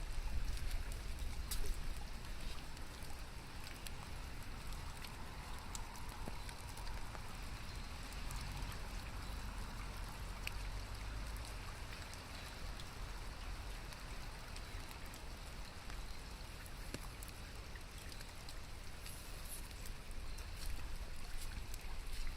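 Steady rain with scattered drops ticking close by, over a low steady rumble.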